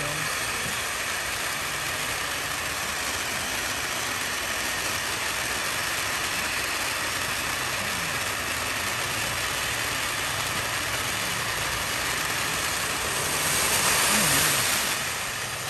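Ground firework fountain burning with a steady hissing rush of spraying sparks, swelling louder near the end, then easing back.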